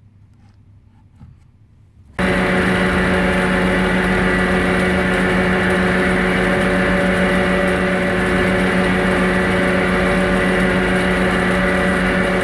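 After a couple of seconds of faint handling sounds, an electric woodworking power tool switches on abruptly and runs steadily at full speed with an even, high hum.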